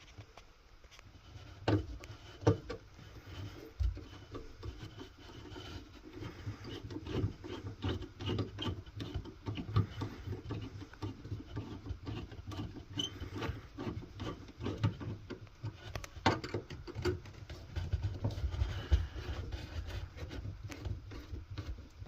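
Irregular clicks, knocks and rubbing of hand work on hose clamps and rubber hoses as the raw-water intake hoses at the seacock are loosened and freed.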